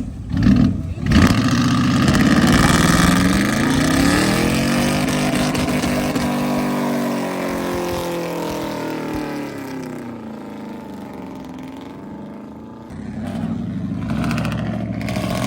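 Truck engine revving: a few quick blips, then held high, its pitch rising and falling as it passes and fades away. Another engine revs up near the end.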